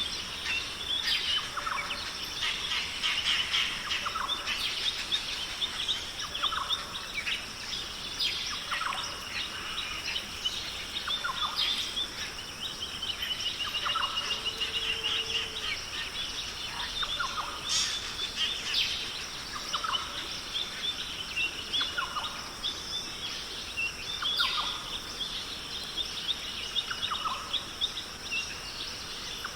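Dense chorus of rainforest birds calling and chirping, with a lower call repeating every two to three seconds and a rapid trill in the middle, over a steady high hiss.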